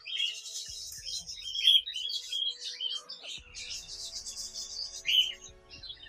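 Birds chirping and chattering in quick, high calls, one after another.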